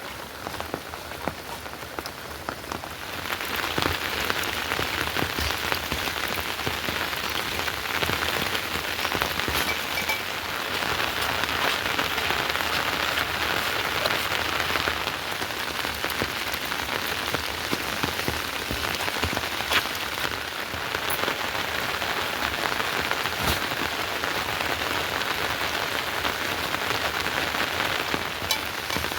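Heavy monsoon rain falling steadily, with many individual drops ticking; it grows louder about three seconds in, then keeps on at the same strength.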